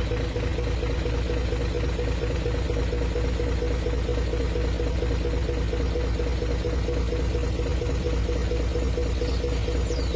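Safari vehicle's engine idling steadily, a constant low rumbling hum.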